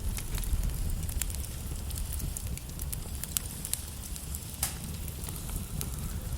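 Wood logs burning in a fireplace, crackling with scattered sharp pops over a steady low rumble of flame.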